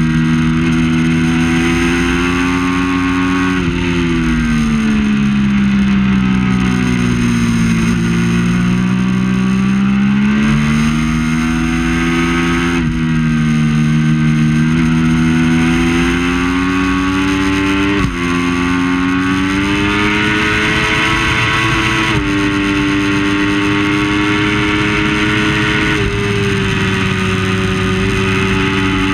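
Triumph Daytona 675 three-cylinder sport bike engine at racing speed. Its pitch falls and rises through the corners, with several sudden jumps as gears change.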